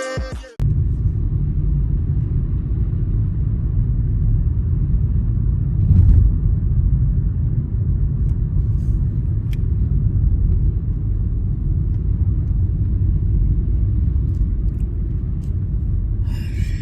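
Steady low rumble of a car on the move, with a brief louder bump about six seconds in.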